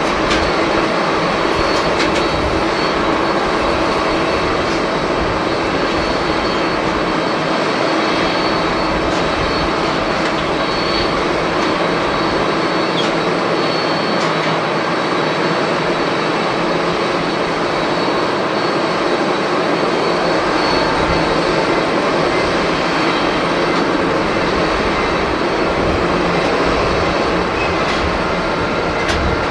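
Jet airliner engines running, a steady, unbroken noise with a faint high whine, mixed with a low, uneven rumble of strong wind on the microphone.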